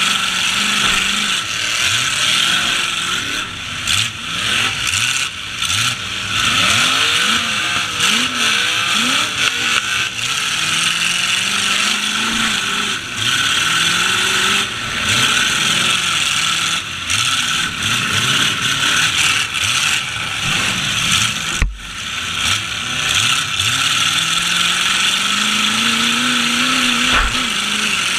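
Demolition derby trucks' engines revving up and down again and again, several at once, with scattered knocks of impact.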